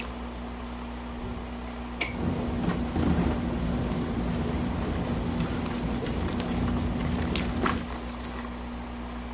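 Small RV washing machine agitating a full tub of hot water: a steady motor hum, with a louder stretch of churning from about two seconds in until near the end, which begins and ends with a click.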